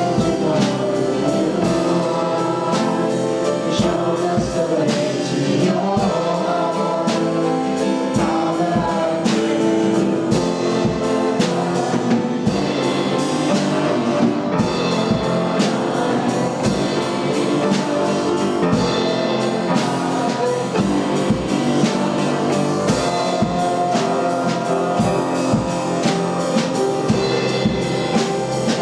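Church worship song: a band with singers leading, over a steady drum beat.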